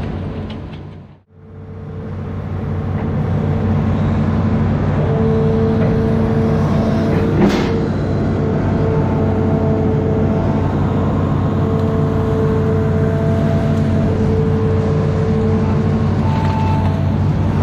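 Amphibious excavator's diesel engine running steadily under load, with higher steady tones coming and going over it and a single sharp knock partway through. The sound fades out briefly about a second in and comes back up.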